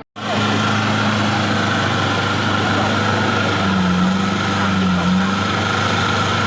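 An off-road race vehicle's engine running steadily, heard close, starting abruptly after a brief gap. Its pitch wavers slightly near the middle.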